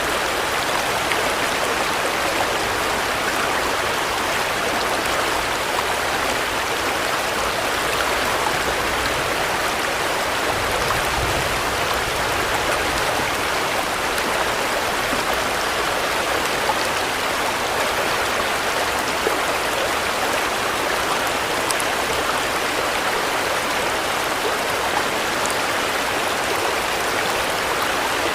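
Steady rainfall: an even, unbroken hiss of falling drops that holds the same level throughout.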